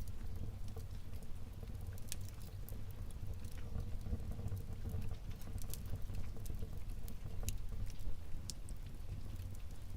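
Wood fire burning in a fireplace: a low steady rumble of the flames with scattered crackles and a few sharper pops.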